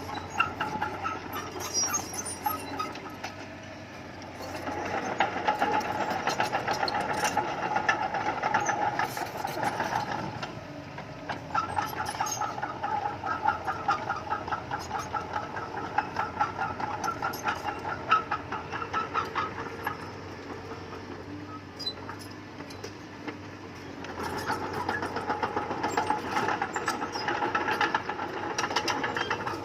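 Bulldozer's diesel engine running with a fast, even knock, working harder under load in three long stretches of about five, eight and five seconds.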